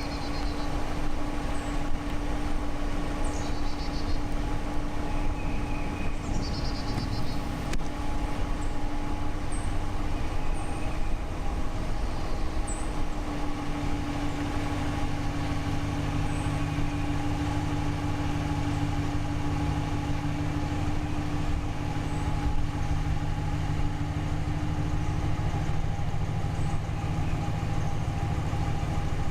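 Car driving slowly, its engine and tyre noise heard through the open window as a steady rumble with a hum. A deeper, steady engine note comes in about halfway through.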